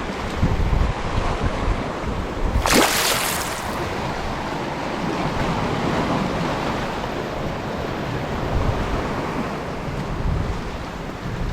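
Sea surf washing against the rocks, mixed with wind buffeting the microphone, steady throughout. A brief, louder rush about three seconds in.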